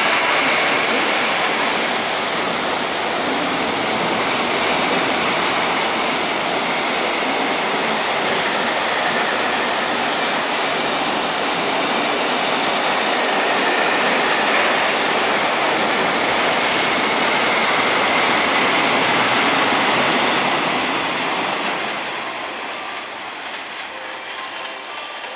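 Freight train, led by an electric locomotive, running through the station on a non-stopping track: a loud continuous rumble and rush of wheels on rail that eases off after about 22 seconds as the train clears.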